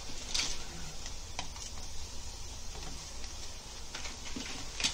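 Oiled paratha frying in a nonstick pan: a faint steady sizzle, with a few light clicks of the spatula pressing and pushing it around.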